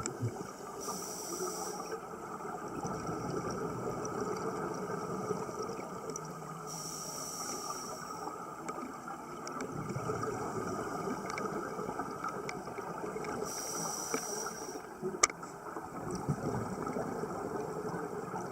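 Underwater sound of a scuba diver breathing through a regulator: a hissing breath three times, about six seconds apart, over a steady underwater rush, with one sharp click near the end.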